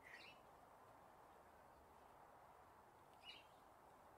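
Near silence, broken by two faint, short bird chirps, one at the start and one about three seconds in.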